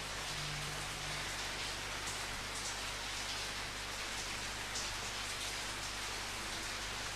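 Steady rain falling, an even hiss with a few louder drops standing out now and then.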